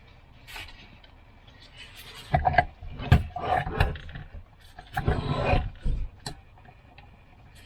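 Irregular clatter and scraping of metal tools and engine parts being handled on a workbench while working the piston pins out of a moped engine, with sharp clicks and a longer rattling scrape about five seconds in.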